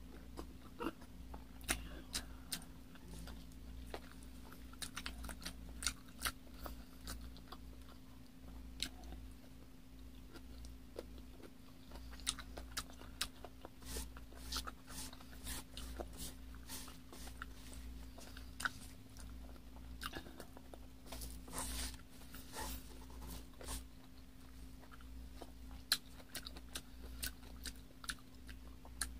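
Close-miked chewing and biting of a person eating, with many short irregular clicks and crunches, over a steady low hum.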